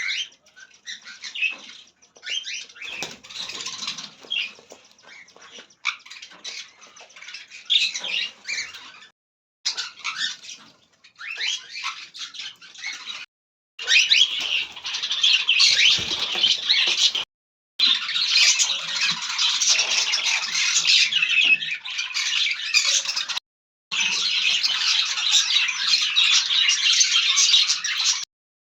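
A flock of small parrots calling all at once, a dense chatter of squawks and chirps. It cuts off abruptly four times and is louder in the second half.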